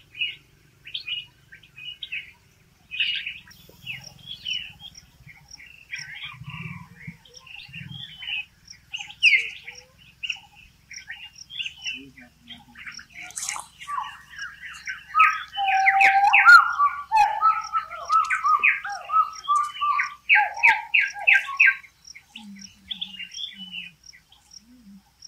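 Birds chirping and calling, short scattered chirps with a loud, fast run of repeated chirps through the second half.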